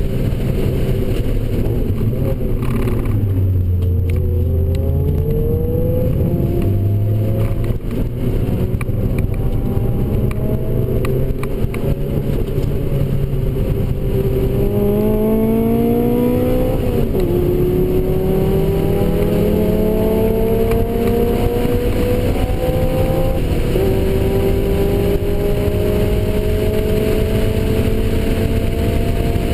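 Mazda NC Miata's 2.0-litre four-cylinder engine heard from inside the cabin under hard acceleration on track. Its pitch climbs through the revs and drops sharply at upshifts, clearly about 17 and 23 seconds in.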